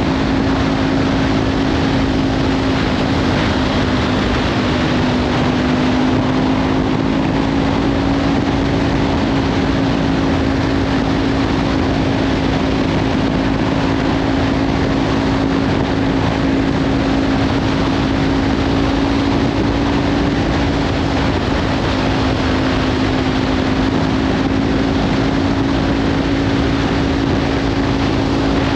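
Kawasaki Ninja 500 parallel-twin engine with a Leovince slip-on exhaust, cruising at a steady speed under heavy wind noise on the microphone. The engine note dips slightly a few seconds in, then rises and holds steady.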